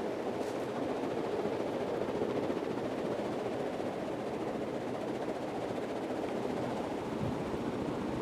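Casablanca Delta ceiling fan with an Astrosyn motor running steadily: an even rush of air from its cane blades, with little bearing noise.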